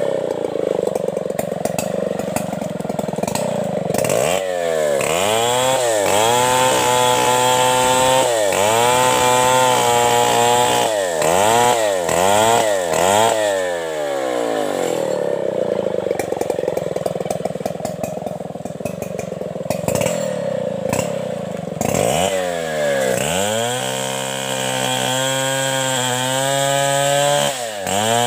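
Stihl 070 two-stroke chainsaw revving up from a lower speed to full throttle about four seconds in and holding there, dropping back to a lower speed around the middle, then revving up to full throttle again a few seconds before the end.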